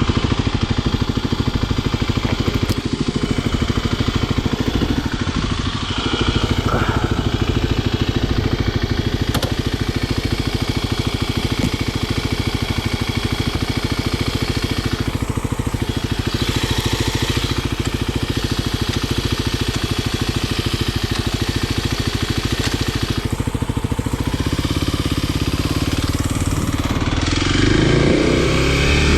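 Kawasaki KLX300SM supermoto's single-cylinder four-stroke engine running steadily at low revs, then revving up with rising pitch near the end.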